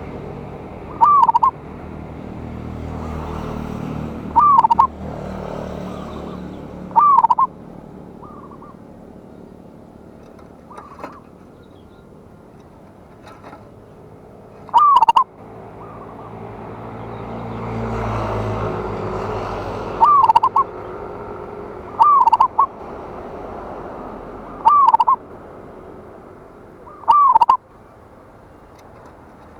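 Zebra dove (perkutut) cooing: about eight short, loud calls a few seconds apart, over a background noise that swells twice.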